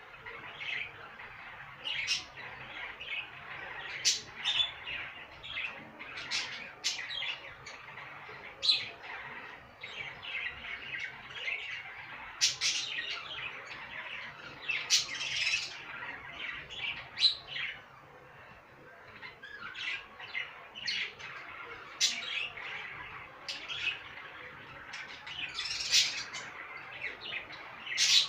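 Budgerigars chattering: a steady stream of short, sharp chirps and squawks, several a second.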